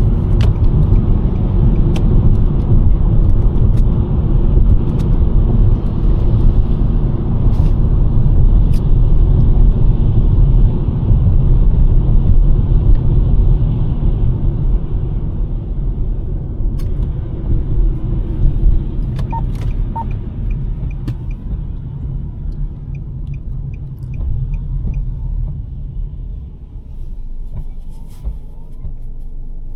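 A 2023 Nissan Sentra driving on snowy roads: steady low road and tyre rumble that gradually gets quieter over the second half as the car slows. A few light clicks, then a short run of evenly spaced ticks, come late on.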